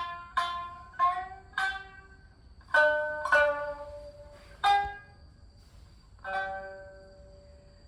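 Japanese plucked string instrument playing a slow, sparse phrase of single plucked notes, each ringing and fading away, with a longer pause near the end.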